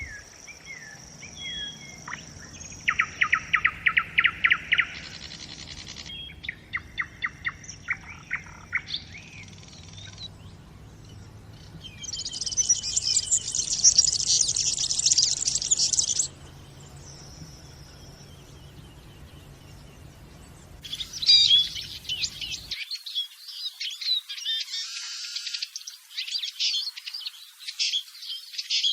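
Wild songbirds singing in turn: rapid evenly spaced trills, a dense high warbling song, then a jumble of twittering chirps. A faint low background noise underneath stops suddenly about two-thirds of the way through.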